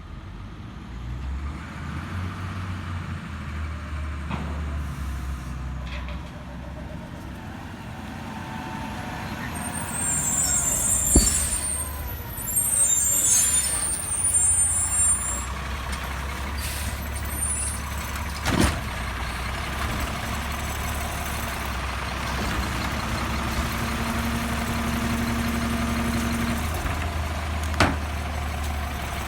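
Heil Multi Pack garbage truck's diesel engine running steadily, with bursts of air hiss and several sharp bangs as leaf set-outs are collected.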